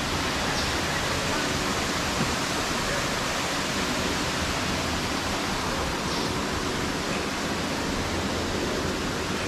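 Waterfall's water rushing steadily, an even, unbroken noise.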